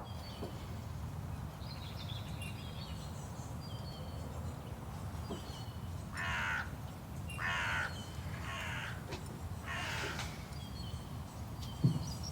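A crow cawing four times, spaced about a second apart, over a steady low outdoor background, with faint small-bird chirps before the caws.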